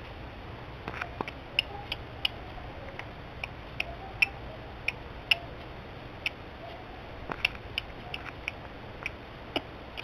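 Small bird giving short, sharp tick notes at irregular intervals, sometimes two or three close together, over a steady low hum.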